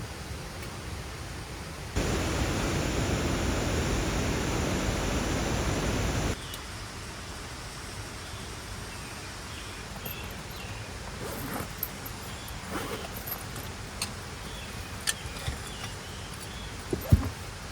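Steady rushing water noise. A louder stretch of it starts and stops abruptly from about two to six seconds in. Scattered small ticks and faint chirps follow in the second half, and a single sharp thump comes near the end.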